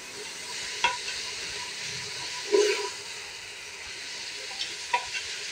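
Keema (minced meat) with onions, tomatoes and spices frying in an aluminium pressure cooker, sizzling steadily as it is stirred with a metal spoon. A few sharp clicks and a short scrape come from the spoon against the pot.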